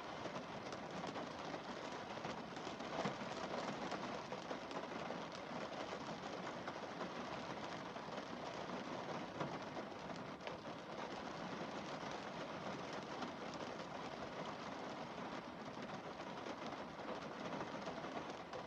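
Rain falling steadily on a car windscreen: an even hiss scattered with the small ticks of individual drops.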